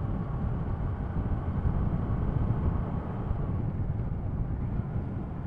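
A 2016 Kawasaki ER-6F motorcycle being ridden at a steady speed: its parallel-twin engine runs evenly under a steady rush of wind and road noise.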